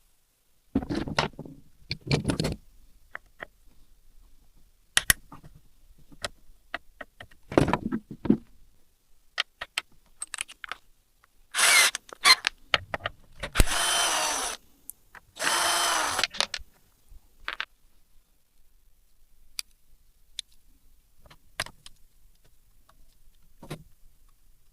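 Workshop tool sounds: metal tools and parts clicking and clattering, with three short runs of a power tool, like a drill, about halfway through.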